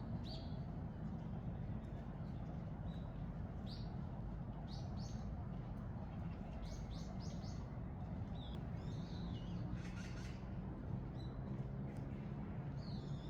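Small birds chirping in short, scattered calls, over a steady low background rumble.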